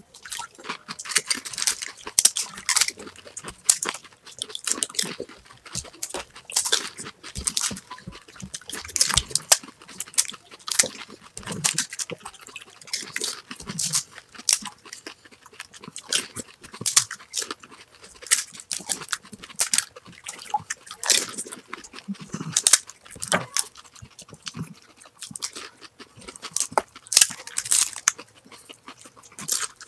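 Two people eating pani puri fast: crisp hollow puri shells filled with spiced water crunching and being chewed, in an irregular, rapid stream of crunches.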